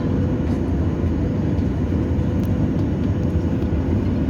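Airliner cabin noise heard from a passenger seat on the ground before takeoff: a steady low rumble of the engines and air systems with a faint steady hum.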